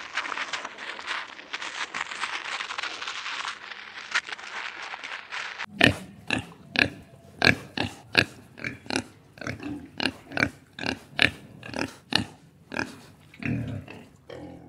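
A dry rustling crackle for about the first six seconds, then domestic pigs grunting: short grunts in quick succession, two or three a second, until just before the end.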